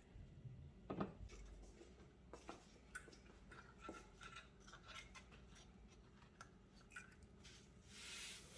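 Faint handling noises while fitting a cable inside a PC case: scattered small clicks and light scraping, with a sharper click about a second in and a brief hiss near the end.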